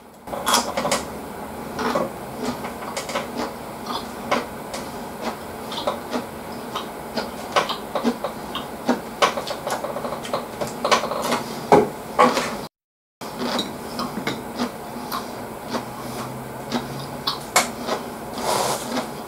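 Close-miked chewing: an irregular run of wet mouth clicks and smacks as a man chews food. The sound cuts out completely for about half a second around thirteen seconds in. Near the end a tissue is pulled from its box with a short rustle.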